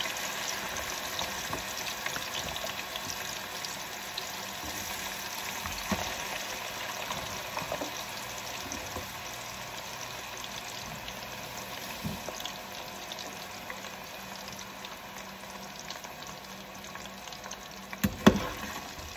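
Homemade potato fries frying in hot cooking oil in a pan: a steady sizzle with fine crackling. A few light knocks, and a louder clatter of a metal skimmer against the pan near the end.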